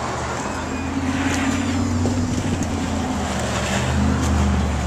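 Street traffic: a motor vehicle's engine running with a steady low hum, growing slightly louder about four seconds in.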